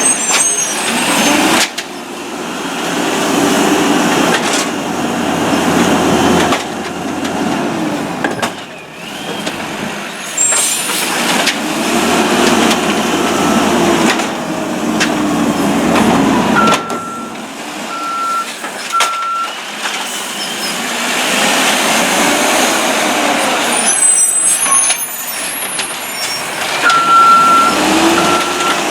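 Peterbilt garbage truck engine revved up and let back down over and over, the driver revving by hand to drive the Amrep automated side-loader's arm. Short air-brake hisses come in between, and a reversing beeper sounds three times about two thirds of the way in and starts beeping again near the end.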